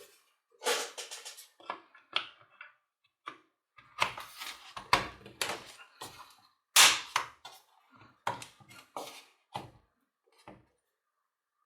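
Irregular clicks, knocks and short scrapes of hard parts being handled and fitted together while a Hammer UDD950A hammer drill is reassembled.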